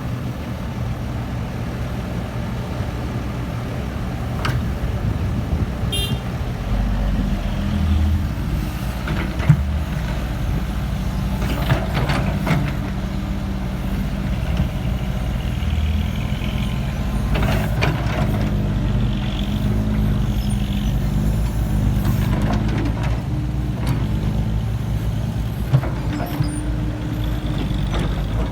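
Komatsu PC70-8 excavator's diesel engine running steadily under load, with occasional short knocks and clatters as the machine works.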